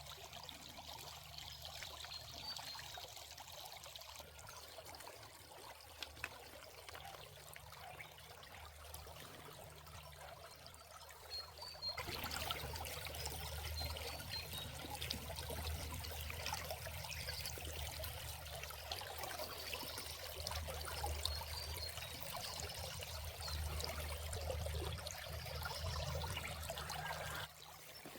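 Water running and trickling steadily. It turns abruptly louder about twelve seconds in and drops back just before the end.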